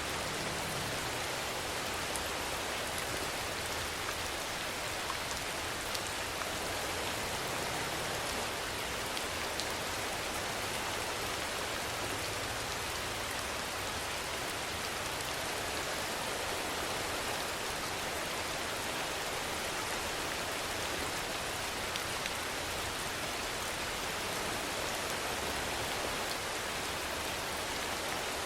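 Steady rainfall, an even hiss of rain with a few scattered louder drop ticks.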